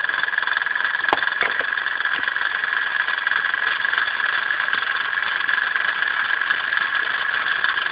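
Small paraffin-fired Meccano model steam engine running, its steam giving a steady, even hiss. A single sharp click about a second in.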